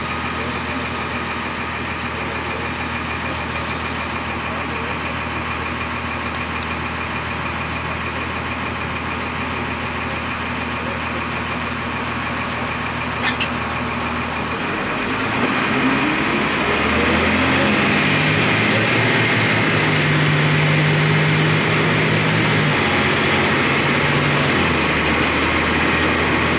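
The Cummins ISC diesel of a 2002 Blue Bird CS transit bus idling steadily, then just past halfway a short sharp click and the engine revs up as the bus pulls away through its Allison automatic, louder, with a thin high whine carried along with it.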